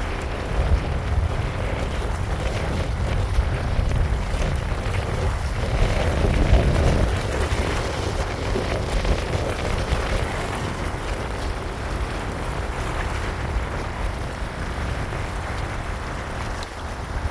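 Wind rumbling and buffeting on the microphone over a steady wash of outdoor noise from rain by the river, a little stronger about six seconds in.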